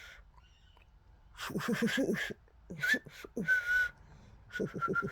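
Indian ringneck parakeet chattering in quick bursts mixed with short whistles, starting after about a second of quiet and ending in a rapid run of chatter.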